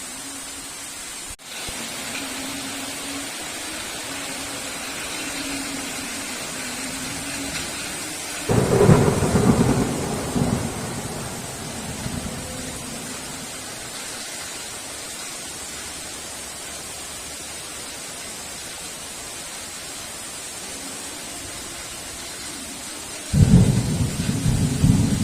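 Heavy rain falling steadily as a dense hiss. Two thunderclaps break in with sudden deep rumbles, one about a third of the way in that dies away over a couple of seconds, and a second near the end.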